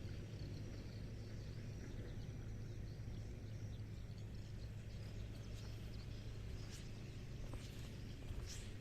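Outdoor ambience: a steady low hum under a faint hiss, with scattered faint high chirps and a few light ticks.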